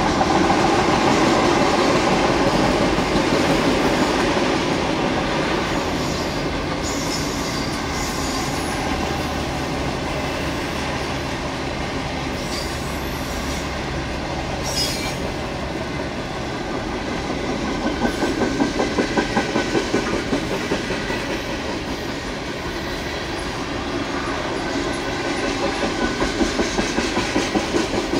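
Norfolk Southern freight cars rolling past on steel rails, with a steady rumble and groups of rhythmic wheel clicks over the rail joints.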